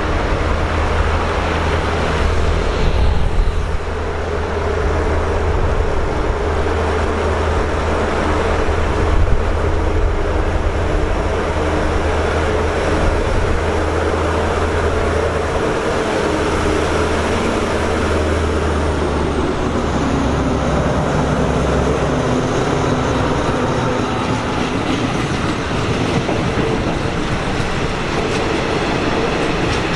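Alsthom diesel-electric locomotive No. 4404 running with a deep, steady engine drone as it hauls a passenger train past. The drone fades a little over halfway through as the locomotive goes by, leaving the carriages' wheels rumbling along the rails.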